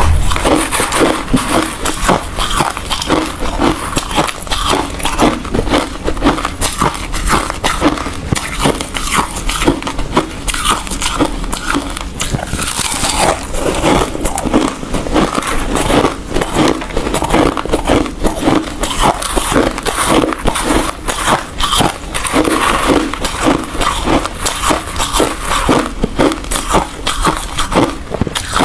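Ice being chewed and crunched close to the microphone: a dense, unbroken run of cracks and crunches, many a second.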